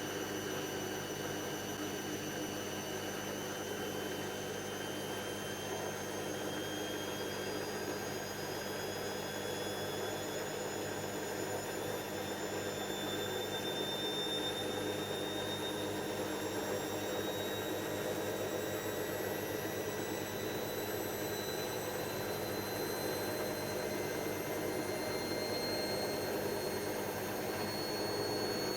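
Hoover DYN7144XD1 washing machine spinning up, its motor whine rising slowly and steadily in pitch over a steady hum as the drum gathers speed.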